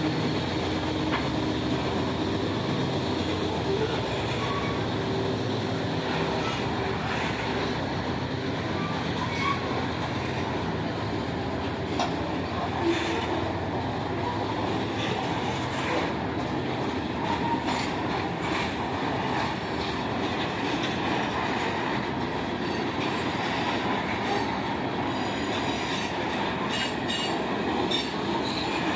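Train rolling past: a steady rumble of steel wheels on rail, with scattered short clicks.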